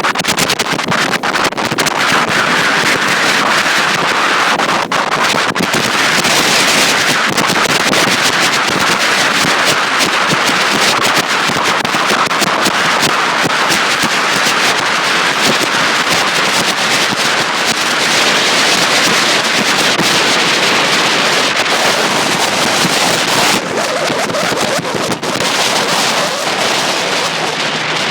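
Heavy wind buffeting the microphone on a moving boat, a steady loud rush with many short crackles throughout.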